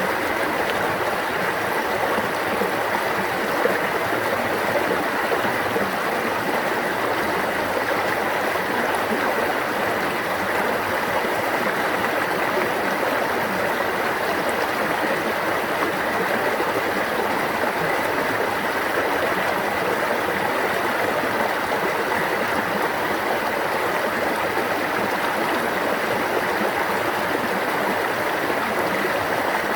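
A stream of water running steadily: an even, unbroken rushing with no changes.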